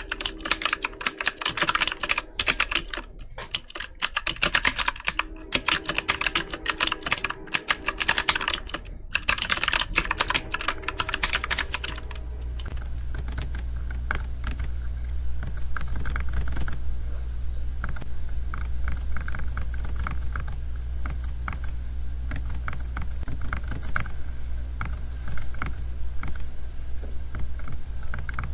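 Typing on a computer keyboard: fast runs of key clicks broken by short pauses. About twelve seconds in, the clicks turn softer and sparser over a steady low hum.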